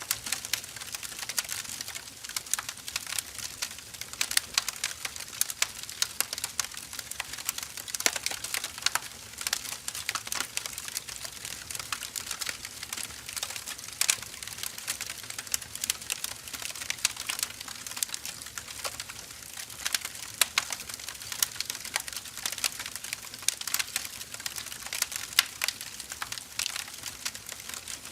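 Burning firewood crackling: dense, irregular pops and snaps over a soft hiss of the fire.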